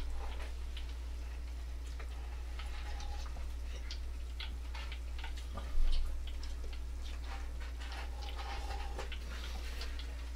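Chicken nuggets frying in a pan of oil: scattered small crackles and pops, over a steady low hum. One louder knock about six seconds in.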